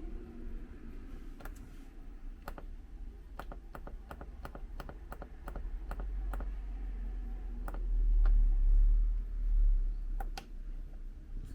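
Buttons clicked by hand on a hardware synth's step sequencer, about twenty short clicks at irregular spacing, some in quick runs, over a low hum that swells near the end.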